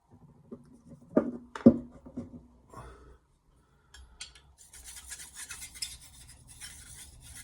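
Two sharp knocks, then from about halfway a rapid run of scraping strokes of a steel knife blade drawn across a whetstone.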